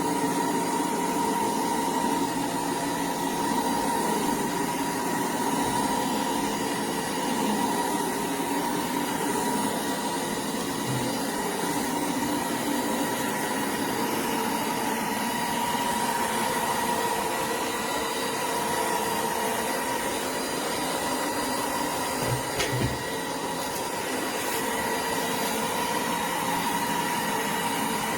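Roborock Dyad Pro cordless wet-and-dry floor vacuum running steadily, its motor giving a constant hum with a steady whine, with a couple of brief low knocks as it is worked.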